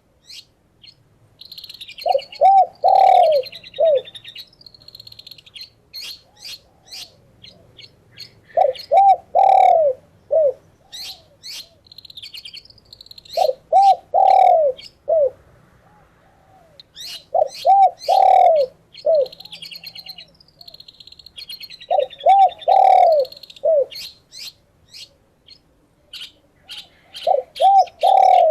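A dove cooing in short phrases of four or five low arched notes, about every four to five seconds, while a smaller songbird chirps and twitters rapidly in between.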